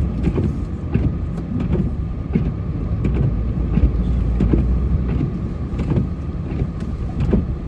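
Plow truck's engine running, heard from inside the cab: a steady low rumble with scattered knocks and rattles.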